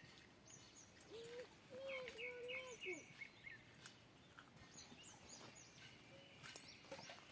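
Faint outdoor ambience with small birds chirping repeatedly, including a quick run of chirps about two seconds in. A faint wavering drawn-out call sounds from about one to three seconds, and a sharp click comes near the end.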